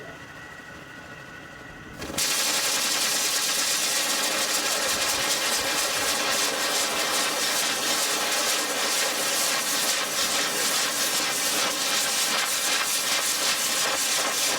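Prototype TR Mk I turborocket engine lighting up about two seconds in. A quieter whir with a few steady tones jumps suddenly to a loud, steady rushing hiss with a faint whine as the engine runs on its fuel.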